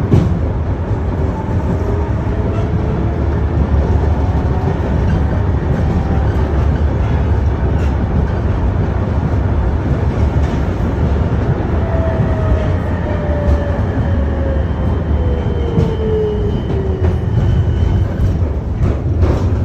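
KTM-31 tram running along the track, heard from on board: a steady low rumble of wheels and running gear. About two-thirds of the way through, a faint whine slides down in pitch, and a few sharp knocks come near the end.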